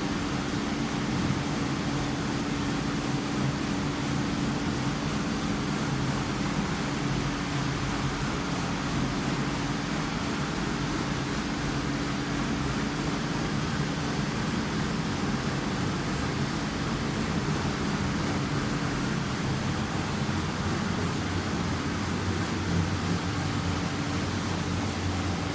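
Wexiödisk WD-6 EA hood-type dishwasher running its wash: a steady rush of spraying water over a constant low machine hum.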